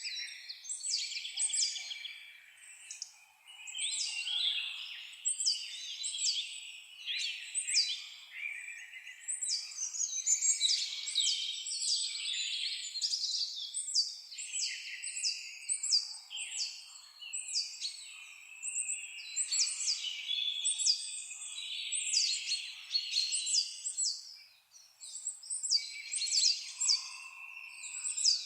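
A chorus of several songbirds singing: many quick, high whistled notes that sweep downward in rapid series, mixed with lower warbling trills.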